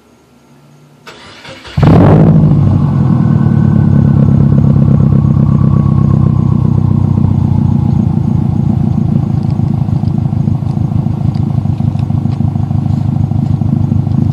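2011 Subaru WRX's turbocharged flat-four starting through a Nameless catback exhaust with a resonator and 4-inch mufflers. The starter cranks briefly, then the engine catches loudly just under two seconds in and settles into a steady idle.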